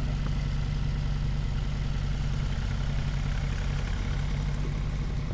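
Truck engine running steadily under throttle, a low even hum, while pulling a stuck truck free in a tow recovery.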